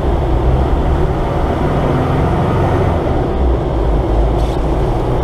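Diesel 4x4 off-roader driving along, heard from inside the cab: a steady low engine and road rumble.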